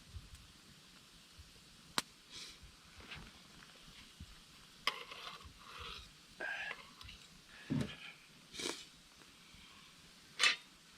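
Scattered handling noises: knocks, clicks and short scrapes of objects being moved, with a sharp click about two seconds in and a louder brief rustle near the end.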